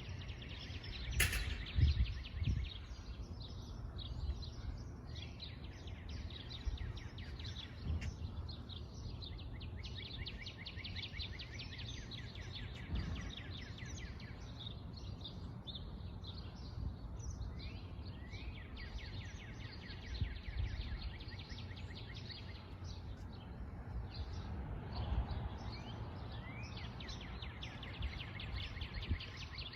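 Many small songbirds chirping and trilling in fast runs of repeated high notes, over a steady low background rumble. A sharp click about a second in.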